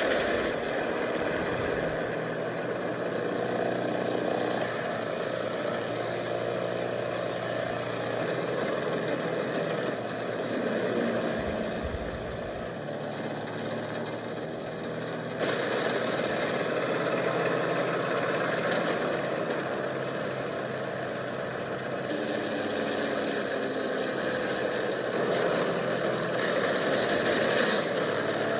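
Propeller plane engine running steadily over a rush of noise. Its pitch and loudness shift abruptly several times.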